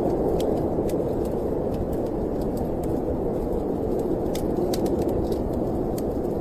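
Steady low rush of storm wind, with small, irregular crackles from a fireplace fire scattered through it.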